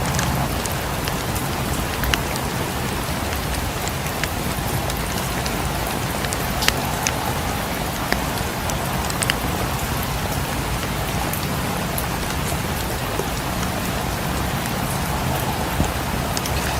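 Steady rain falling, with a few sharp ticks and pops scattered through it.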